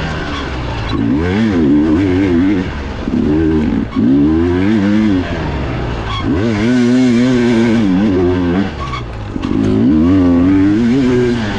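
Dirt bike engine ridden hard: revs rising and falling over and over as the throttle is opened and shut, dipping briefly every couple of seconds.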